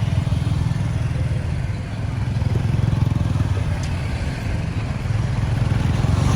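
Road traffic noise: steady motor vehicle engine noise, with a rumble from the road under it.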